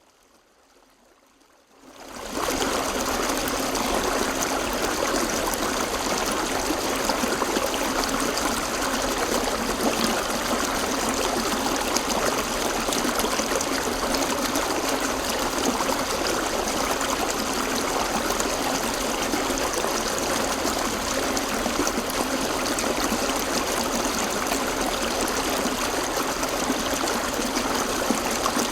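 River water flowing and splashing over rocks, a steady rushing that fades in about two seconds in.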